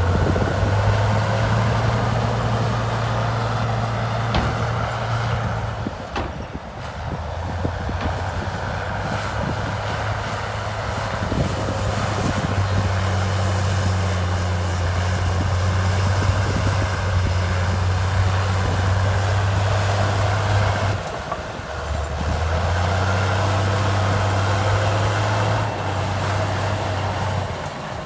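Heavy diesel earthmoving machine's engine running under changing load, its low note stepping up and down several times over steady mechanical noise, with brief drops in level about six seconds in and again near two-thirds of the way through.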